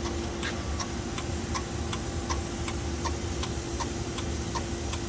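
Regular ticking, about three ticks a second, each tick short and sharp, over a steady low hum.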